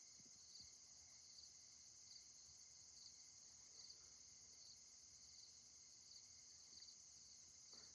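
Faint chorus of crickets: a steady high trill with softer chirps repeating about twice a second.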